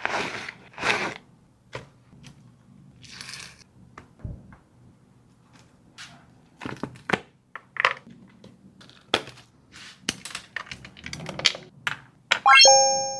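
A dog chewing crunchy food, with scattered crunches and clicks. Near the end a bowl clatters briefly and rings out, the ringing fading over about a second.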